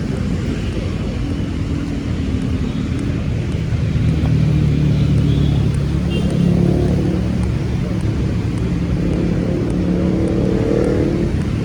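Road traffic: vehicle engines running and passing steadily, with a low engine hum that grows louder about four seconds in and again near the end.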